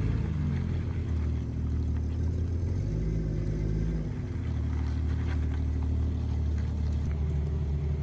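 Jeep engine running steadily while driving, its low note shifting about three to four seconds in.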